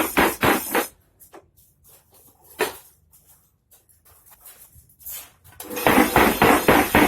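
Mechanical power hammer pounding steel at about four blows a second. It stops after about a second, leaving a few light knocks and one sharper clank. It starts hammering again near the end.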